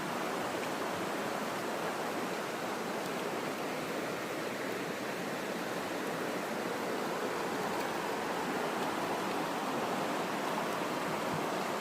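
Creek water rushing steadily over rocks, a constant even wash with no breaks.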